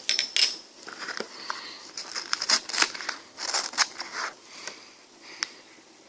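Close-miked eating of an ice cream: a run of small bites and crunches with wet mouth clicks, densest in the middle and thinning out near the end.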